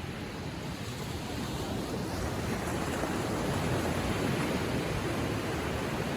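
Gentle ocean waves lapping on the shore: a steady rush of surf that swells over a few seconds and eases slightly near the end.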